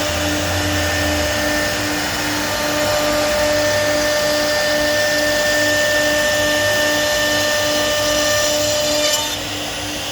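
CNC machine running steadily with a high spindle whine over a noisy machining din and a low hum that pulses a few times a second. About nine seconds in, the whine stops and the sound drops a little.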